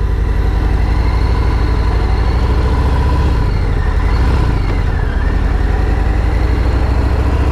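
A car's steady engine and road rumble heard from inside the cabin while driving, a low even drone that eases slightly around the middle.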